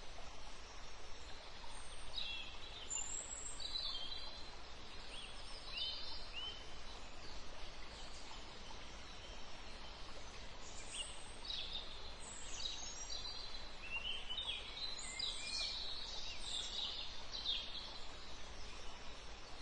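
Birds chirping in short, scattered calls, busiest in two stretches, over a steady low hum and faint background hiss.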